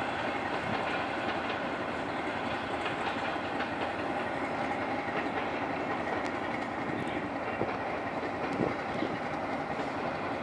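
Passenger train coaches rolling through a station yard: a steady rail rumble, with wheels clicking over rail joints and points.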